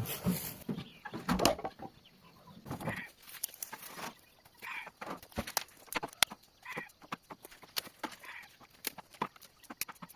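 Hens clucking in short calls every second or two, among scattered sharp clicks and snaps. A few louder rustling knocks come in the first three seconds.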